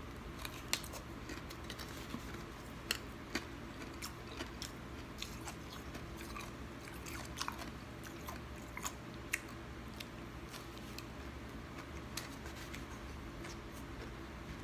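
Close-up chewing of soft freezer frost: irregular soft crunches and clicks from the mouth, a few at a time, over a steady low hum.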